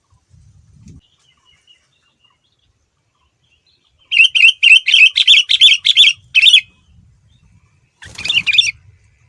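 Sooty-headed bulbul (kutilang) singing: a fast run of about ten loud, repeated whistled notes, roughly four a second, lasting about two and a half seconds. A shorter phrase follows near the end.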